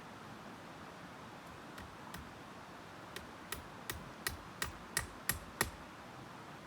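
A run of about eight sharp knocks, roughly three a second, growing louder toward the end, over a steady hiss.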